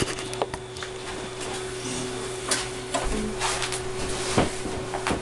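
Scattered clicks and knocks of handling noise over a steady low hum, with a few sharper knocks about two and a half, four and a half and five seconds in.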